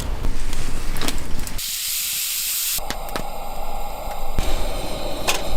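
Hissing and crackling noise with scattered clicks, changing abruptly several times, with a stretch of high hiss alone about two seconds in.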